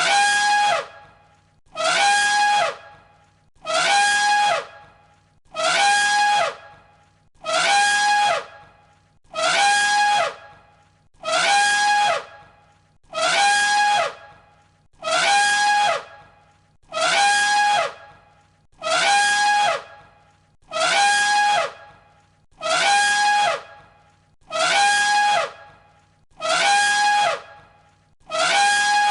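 An elephant trumpeting: the same short, brassy call of just under a second, repeated again and again about every two seconds as a loop of one recording.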